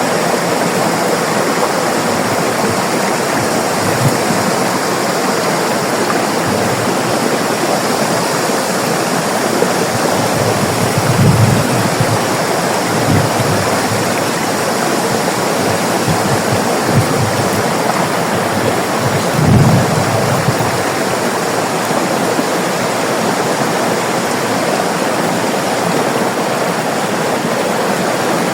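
River water rushing steadily. Two brief low thumps break through, the louder one about two thirds of the way in.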